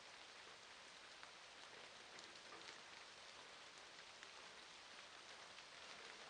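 Faint, steady rain falling, a constant hiss with scattered small drop ticks.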